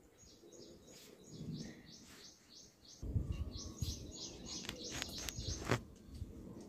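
A small bird chirping in quick runs of short, high, falling chirps, several a second. From about halfway a low rumbling noise joins in, with a couple of sharp clicks.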